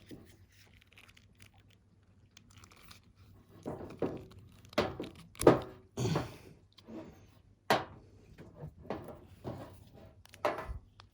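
Hand cable stripper working on an extension cable's plastic sheath: a run of sharp clicks, crunches and knocks, starting a few seconds in.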